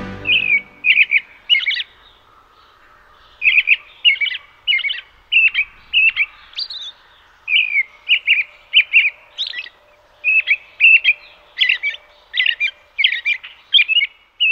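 Songbird chirping: a long run of short, high chirps, about two a second, with a pause of a second or so near the start.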